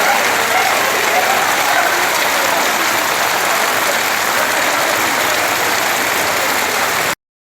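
Steady loud rush of water, a dense even hiss with no rhythm, cutting off suddenly near the end.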